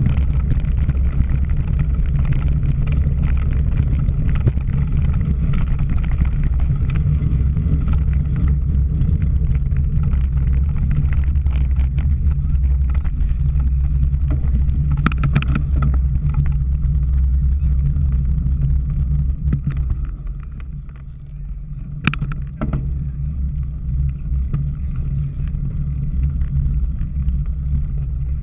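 Bicycle ridden at race speed: steady wind rumble on the microphone with rattling from the bike over rough ground. It eases about two-thirds of the way through, with a couple of sharp clicks.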